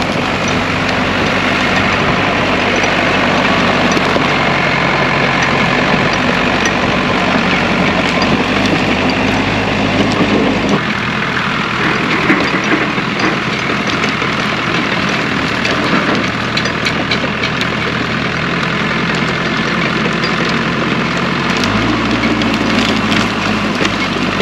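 Case 550G crawler dozer's diesel engine running while the dozer clears a felled tree. Its note changes abruptly about eleven seconds in and again near the end, with scattered sharp clicks between.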